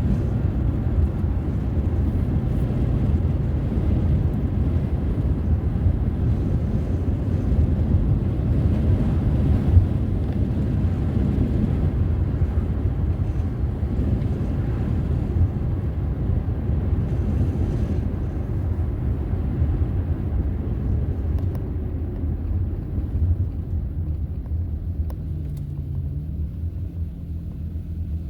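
Steady low rumble of a car driving, with road and engine noise, growing somewhat quieter toward the end as a faint engine tone comes through.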